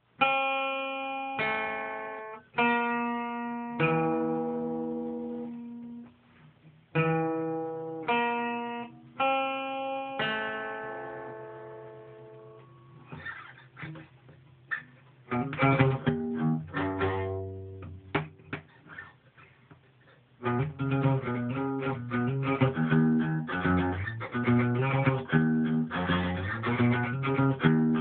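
Acoustic guitar played by hand. Single chords are struck and left to ring and fade over the first dozen seconds, then a stretch of scattered plucked notes, then steady rhythmic strumming from about twenty seconds in.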